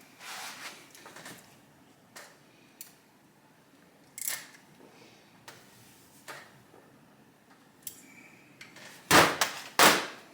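Tools and motorcycle parts being handled during assembly: scattered light clicks and knocks, then two loud sharp knocks about nine and ten seconds in.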